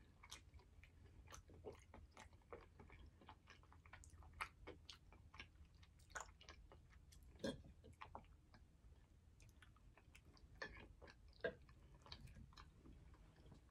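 Faint chewing: soft, irregular mouth clicks and smacks of food being chewed, a few slightly louder than the rest.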